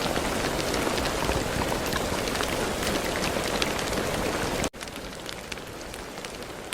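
Steady rain falling on a surface, a dense hiss with individual drops ticking through it. About four and a half seconds in it cuts off abruptly and resumes as a quieter, thinner rain.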